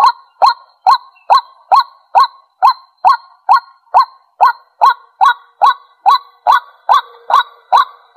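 White-breasted waterhen calling: a steady, loud series of short, harsh 'kwak' notes, a little over two a second.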